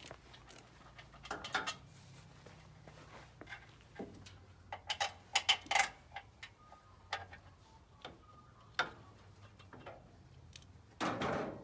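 Scattered metallic clicks and knocks of hand tools and bolts against engine and gearbox parts during an engine install, irregular with a quick cluster midway, over a faint low hum, ending in a louder brief scrape.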